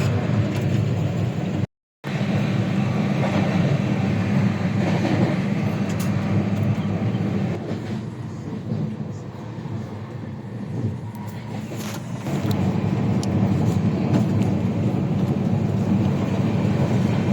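Steady low rumble of the Tejas Rajdhani Express running on the rails. The sound drops out completely for a moment near the start, then eases to a quieter stretch in the middle before it comes back up.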